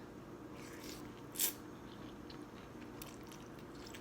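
Close-up eating sounds of a person eating a bowl of boat noodles: soft chewing and mouth clicks, with one short, louder noise about a second and a half in.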